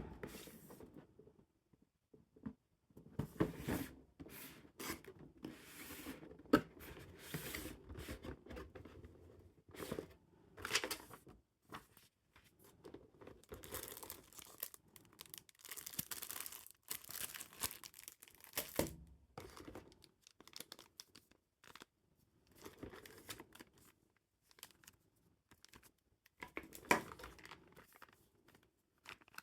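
Packaging being torn open and crinkled by hand while a new camera is unboxed: irregular rustling and tearing in bursts with short pauses between.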